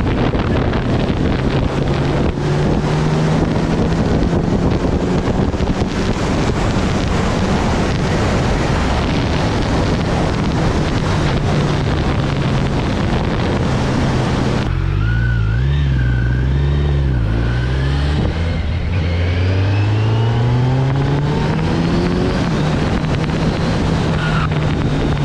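Kawasaki Z900's inline-four engine running under way with heavy wind rush on the microphone. About fifteen seconds in, the wind drops away suddenly and the engine note wavers. It then rises steadily as the bike accelerates and settles into a steady cruise.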